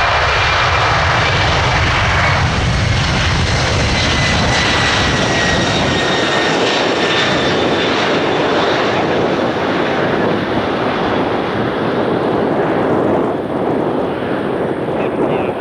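Boeing 767-300 freighter's jet engines at takeoff power, a loud roar with a whine that slowly falls in pitch as the aircraft moves away. The low rumble fades from about six seconds in.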